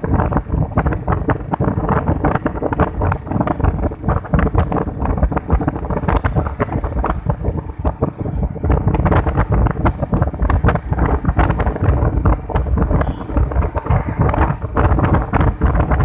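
Heavy wind buffeting the microphone, crackling over a steady low rumble with a faint steady hum, as from a camera on a moving vehicle.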